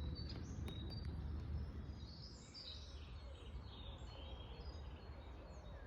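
Faint birdsong in woodland: scattered short chirps and small whistled glides from songbirds, over a steady low background rumble.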